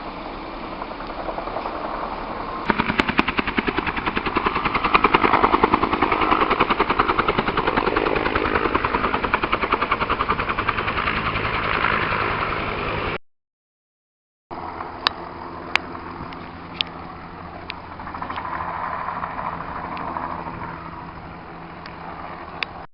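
Wildfire burning with a dense, rapid crackle that builds about three seconds in. After a cut, scattered sharp pops sound over a steady low hum.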